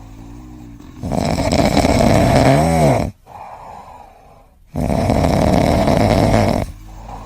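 A pet snoring loudly: two long snores of about two seconds each, with quieter breathing between them.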